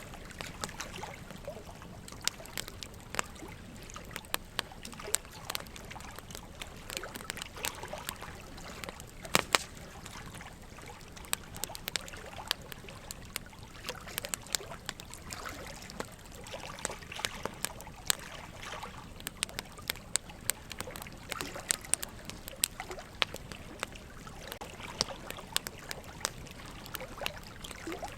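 Wood fire crackling, with many sharp pops and snaps at irregular moments and a louder one about a third of the way in, over a steady trickle of running water.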